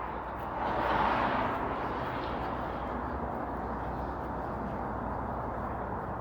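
Steady city traffic noise, with a vehicle passing close by that swells about a second in and then fades back into the background hum.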